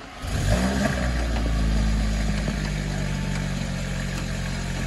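2020 Audi A3 quattro's turbocharged 2.0-litre four-cylinder starting up through a catless downpipe, the rest of the exhaust stock. It fires with a brief rise in revs, then settles into a steady idle.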